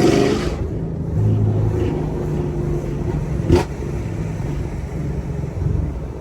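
Chevrolet Camaro SS 1LE's 6.2-litre V8 running steadily at a light city cruise, with one sharp pop about three and a half seconds in.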